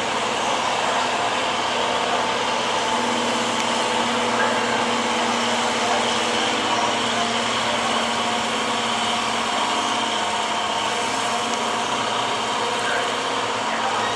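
Gas 4x4 pickup truck's engine held at high revs under full load, pulling a weight-transfer sled down the track, a loud steady high-pitched running with little change in pitch.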